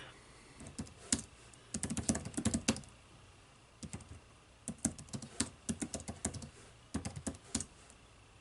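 Typing on a computer keyboard in irregular bursts of quick key clicks with short pauses between them.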